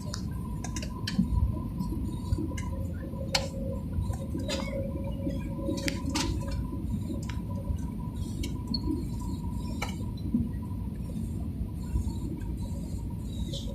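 Steady low rumble of an airliner cabin, with a faint steady hum and scattered small clicks and rattles.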